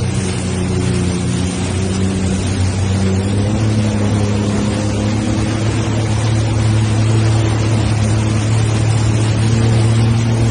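An engine running steadily with a low, even hum, under a dense hiss of wind and heavy rain.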